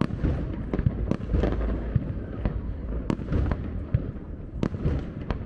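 Aerial fireworks going off in quick succession: many sharp bangs and crackles, several a second, over a continuous low rumble.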